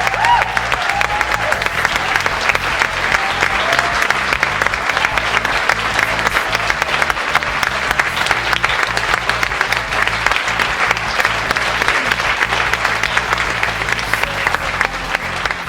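Audience applauding steadily, over background music, fading slightly near the end.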